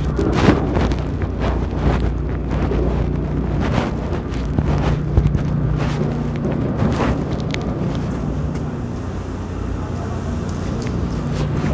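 City street noise: a steady low engine hum from traffic or an idling vehicle, with wind buffeting the microphone and scattered short knocks.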